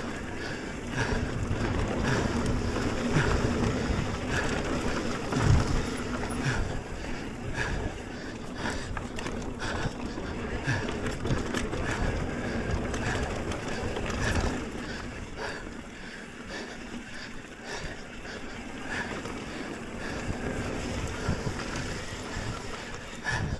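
Mountain bike riding down a dirt trail: tyres running over dirt and rock, with frequent short rattles and knocks from the bike over bumps, and rushing noise on the microphone.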